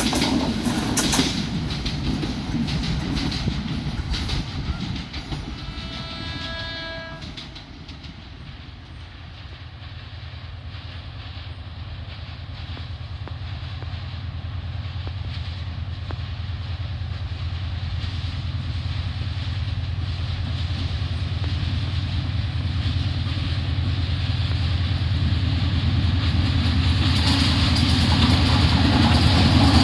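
A meter-gauge train rolling past and fading away, with a distant train horn sounding once for about a second around six seconds in. Then a diesel locomotive's low engine drone grows steadily louder as a train approaches.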